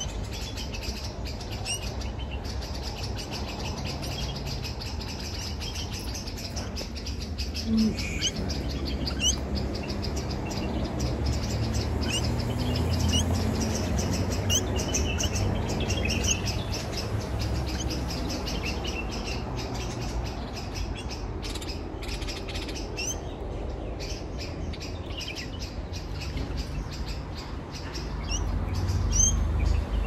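Small birds chirping, with many short high chirps scattered throughout, over a low rumble of wind and handling on the phone microphone.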